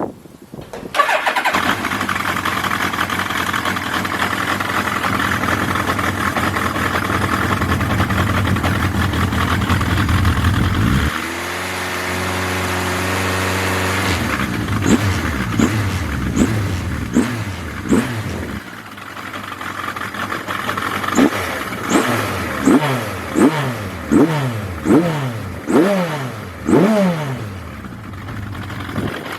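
Suzuki GSX1100S Katana's inline-four engine, breathing through Yoshimura TMR carburettors into a KERKER aftermarket exhaust, starts about a second in and runs steadily, then settles to a lower idle. About halfway through it is blipped about ten times, each quick rev rising and falling back.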